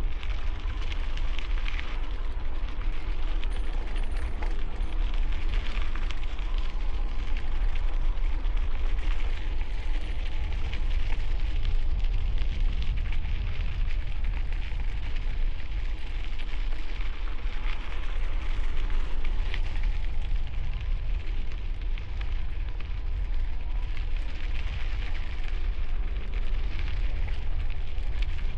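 Wind buffeting a helmet-mounted camera microphone while riding a bicycle: a steady deep rumble with a hiss over it, swelling and easing with the gusts.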